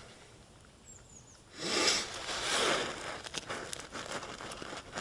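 Rustling and handling noise from hands working the tractor's fuel hoses, starting about one and a half seconds in, with small clicks toward the end.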